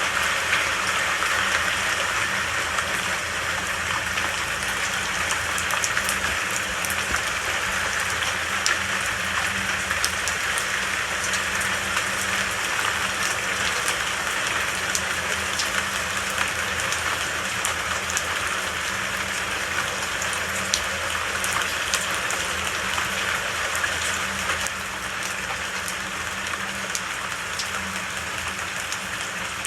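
Steady heavy rain pattering on a surface, with scattered crisp drop ticks, easing a little near the end.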